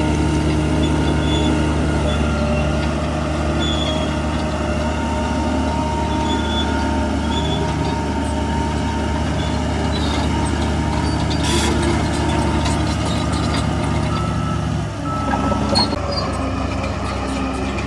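Heavy diesel engine of earthmoving machinery running steadily under load. A short hiss comes about eleven seconds in, and the engine note shifts about fifteen seconds in.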